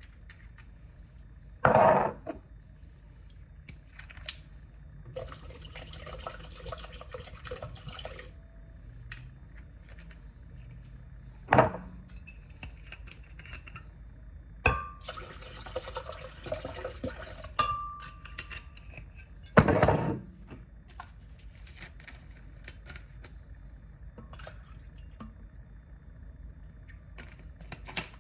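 Kitchen work with liquid: two stretches of liquid pouring, each lasting a few seconds, and several sharp knocks of glass or dishes.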